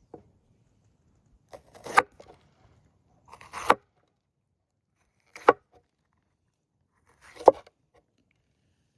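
A knife chopping food on a cutting board: four separate cuts about two seconds apart, each a short slice ending in a sharp knock on the board.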